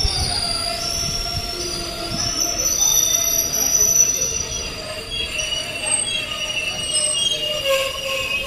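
Passenger coaches of an arriving express train rolling slowly past as the train brakes into the station. Several steady high squealing tones from the brakes and wheels ring over a low rumble.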